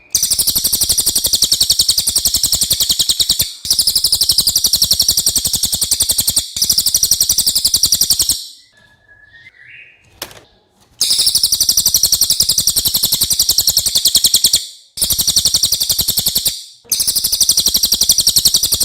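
Cililin bird singing: long, very fast, high-pitched trills in six runs of a few seconds each, with a longer pause about halfway through.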